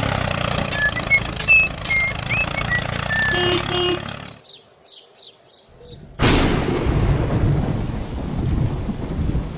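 A small engine runs with a steady hum and a few short chirping whistles over it, then cuts off about four seconds in. After a brief lull, a sudden thunderclap breaks out and settles into steady rain.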